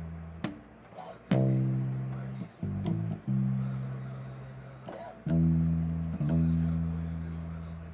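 Electric bass guitar played solo: single plucked low notes, each left ringing and slowly dying away, with a quick cluster of short notes about three seconds in.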